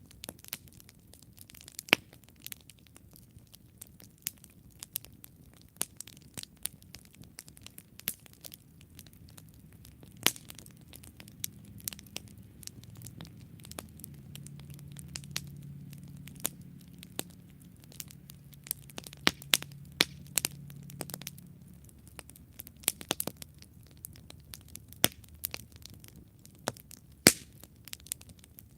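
Wood campfire crackling, with many sharp, irregular pops and snaps over a soft hiss. A low rumble swells under it through the middle.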